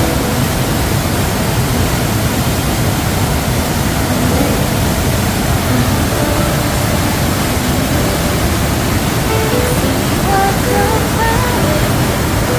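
Steady rush of flowing water, with background music faintly under it whose melody comes through more clearly near the end.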